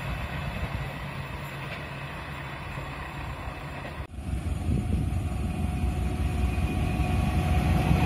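A passenger train rumbling away into the distance and fading. After a cut about four seconds in, a diesel locomotive approaches with a low engine rumble that grows steadily louder.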